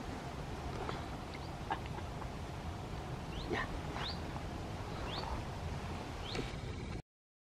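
A wild bird gives about half a dozen short, rising chirps over a steady low outdoor rumble. The sound cuts off abruptly near the end.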